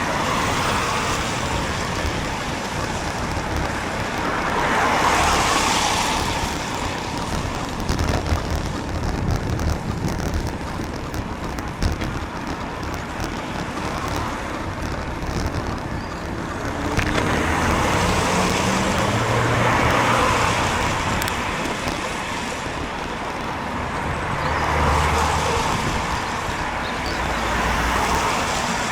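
Road traffic on a wet road passing a bicycle: the hiss of tyres on wet tarmac swells and fades as several cars go by one after another, over a low engine rumble.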